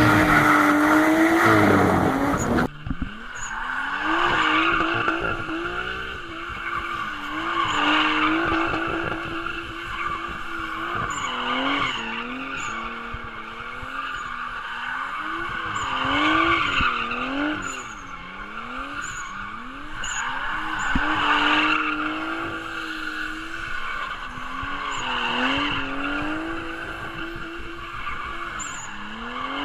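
Nissan 240SX drift car sliding repeatedly: the engine revs up and falls back over and over, and the tyres squeal in a burst with each slide, roughly every four seconds.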